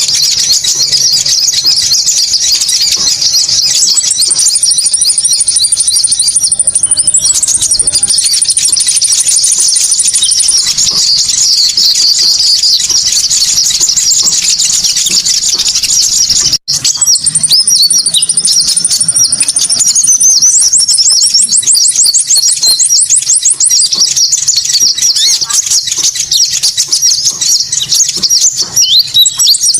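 Konin bird song used as a lure call: a dense, continuous stream of high-pitched chirps and fast trills, with a brief break about halfway through.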